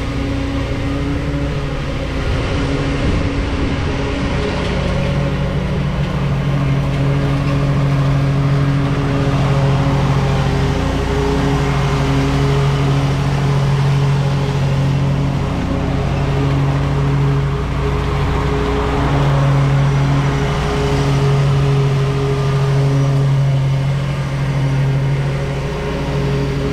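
Lawn mower engine running steadily at a constant pitch while cutting grass.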